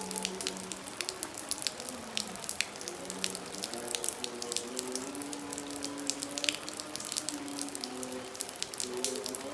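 Heavy rain with drops and drips hitting close by in a dense, irregular patter over a steady wash. A faint, wavering held tune sounds in the background.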